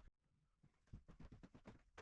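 Faint, irregular knocks and clicks from wooden floorboards being pried up and handled, starting about half a second in after a brief near-silence.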